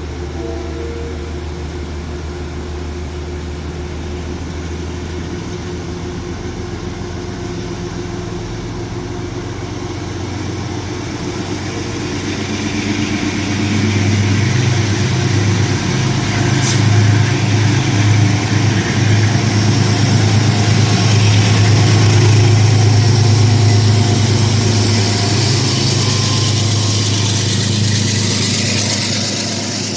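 Train locomotive engine running steadily, then growing louder from about twelve seconds in with a strong low hum and rising hiss, and easing off near the end as the train moves. One sharp click about two-thirds of the way through.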